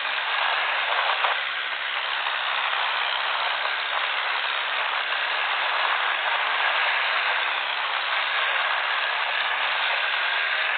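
Tractor engines running hard under load, heard as a steady, dense, harsh noise with no clear breaks.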